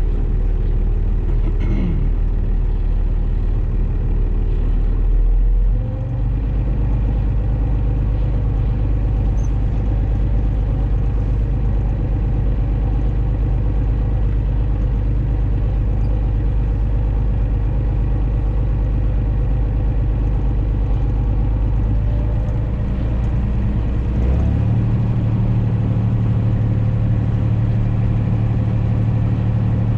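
John Deere 3140 tractor's diesel engine running steadily, its speed stepping up about six seconds in and again near the last quarter.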